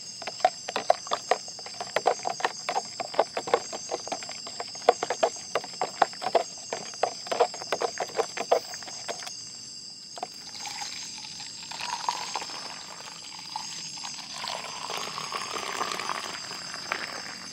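Metal spoon stirring coffee, clinking rapidly against the pot about three or four times a second for some nine seconds, then liquid being poured for several seconds. Crickets chirp steadily throughout.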